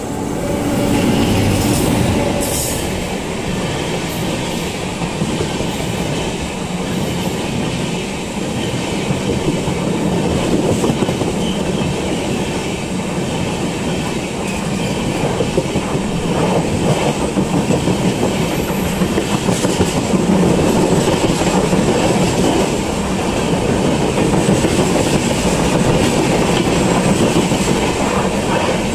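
Moving passenger train, the Karnataka Express, running steadily with its wheels clattering over rail joints in a rhythmic clickety-clack that becomes more pronounced after the first several seconds.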